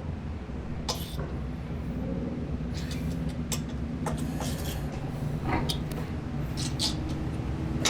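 A steady low shop hum with a few scattered light clicks and taps of hand tools on the fender bolts as they are tightened down.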